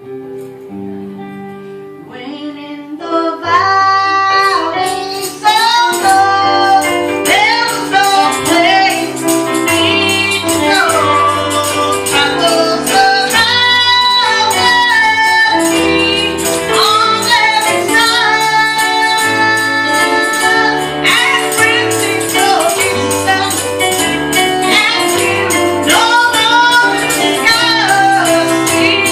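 Church worship music: a woman leads the singing over instrumental accompaniment with a walking bass line, with a tambourine shaken in steady rhythm. The voices come in a few seconds in, after a short instrumental opening.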